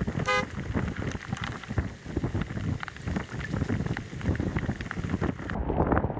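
Hurricane-force wind buffeting the microphone in gusts, with driving rain. A brief pitched chirp sounds just after the start.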